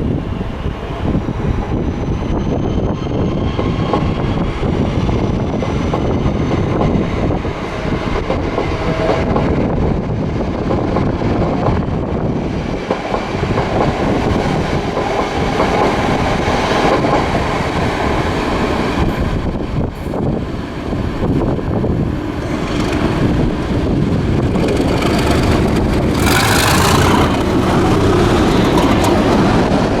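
Two BR Class 37 diesel locomotives, each with an English Electric V12 engine, running hard as they pass with two coaches: a heavy diesel engine note with wheels clattering over the rails. It grows louder towards the end.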